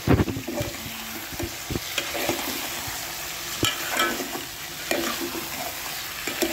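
Chicken pieces and browned onions sizzling in oil in a metal pot over fairly high heat, with a spoon stirring them and knocking against the pot every second or so.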